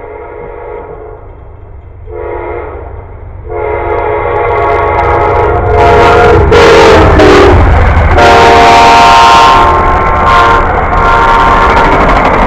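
Locomotive air horn sounding a series of blasts as a train approaches and passes: a short blast about two seconds in, then long blasts, its chord dropping in pitch about seven seconds in as the train goes by. The rumble of the train runs underneath, loudest as it passes.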